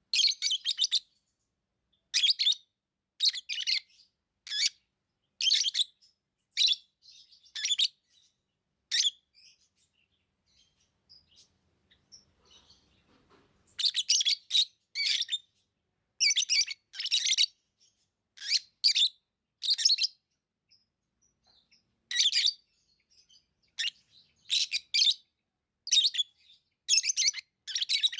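Pet lovebirds chirping in short high-pitched bursts, one every second or so, with a lull of a few seconds around ten seconds in.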